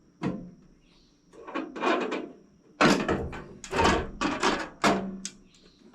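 A run of metal scrapes, slides and knocks as the covers and parts of a Wood-Mizer LT40 band sawmill's blade housing are handled and opened up.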